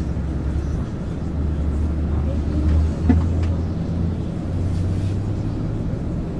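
MAN ÜL 353 intercity bus's diesel engine running under way: a steady low drone whose pitch steps up about three seconds in.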